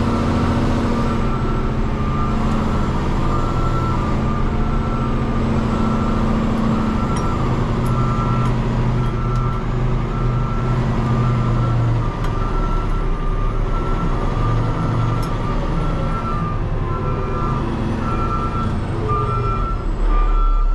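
Peterbilt 589 dump truck's diesel engine running at low speed while a reverse alarm beeps about once a second as the truck backs up.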